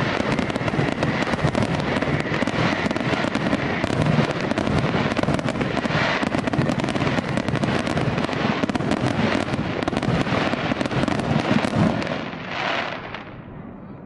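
A dense barrage of fireworks: rapid overlapping bangs and crackle, easing off about twelve seconds in to a couple of separate bursts near the end.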